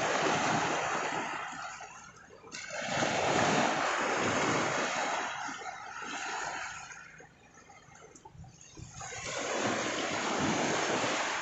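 Sea waves washing up on the shore, the rush swelling and fading three times with a quieter lull in between.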